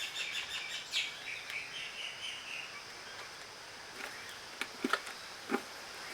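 Outdoor ambience: a steady high insect drone with a short run of bird chirps about a second in, and a few sharp clicks in the second half.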